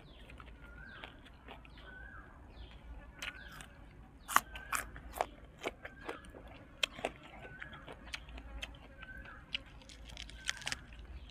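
Close-up chewing and crunching of crisp fried dried squid, with sharp crackles as pieces are bitten and the crisp food and lettuce are handled. A bird repeats a short chirp about every second and a half in the background.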